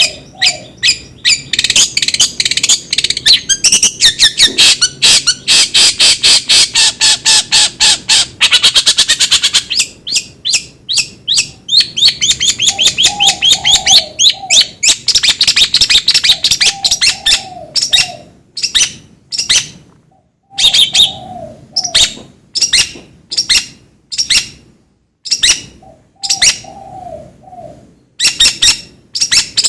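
A bird calling in a fast, harsh chatter of sharp high notes, dense and continuous for the first half, then broken into separate bursts. A short, lower warbling phrase comes back every few seconds.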